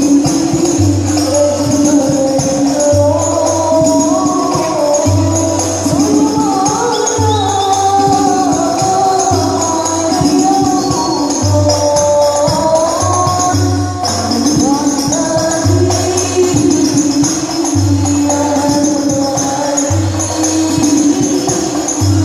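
Sholawat (Islamic devotional song) performed by a group: voices carrying a gliding melody over a steady beat of frame drums with tambourine jingles.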